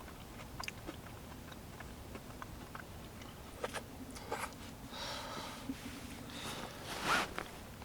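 Quiet close-up handling sounds: scattered small clicks and a few short rustling scrapes, the loudest near the end.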